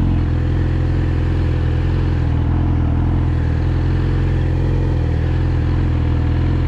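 Yamaha R6's inline-four engine running at a steady, unchanging engine speed, with no revving.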